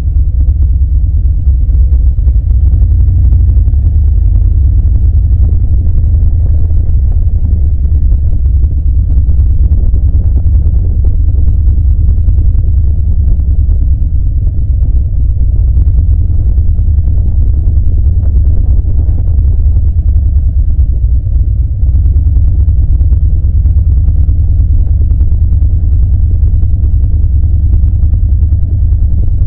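Harley-Davidson V-twin motorcycle engine and exhaust running steadily while cruising, a deep continuous rumble.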